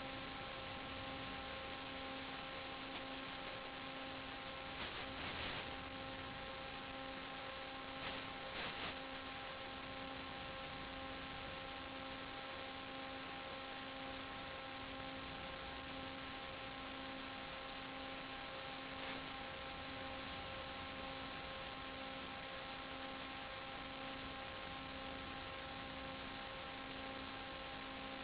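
Steady hiss with a constant electrical hum of several even tones, typical of the audio channel of an analogue 5.8 GHz FPV video link. A couple of brief crackles come about five and eight seconds in.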